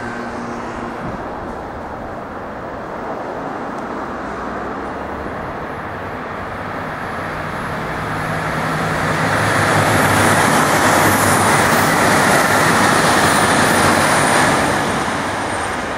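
Diesel express train (Chizu Express HOT7000 type) passing at speed: steady wheel-and-rail rolling noise with a low engine hum, growing louder as the train comes alongside at about ten seconds and easing off near the end.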